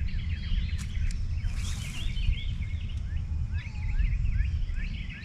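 Birds chirping, many short quick calls one after another, over a steady low rumble. A brief hiss comes in about one and a half seconds in.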